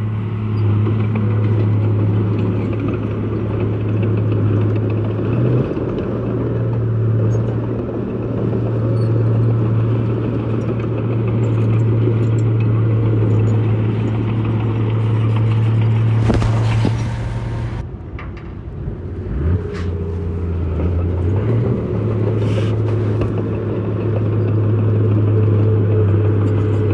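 Heavy diesel engine of an earthmoving machine running steadily with a strong low hum. Past the middle there is a brief noisy burst, then the engine note drops for a couple of seconds before coming back up.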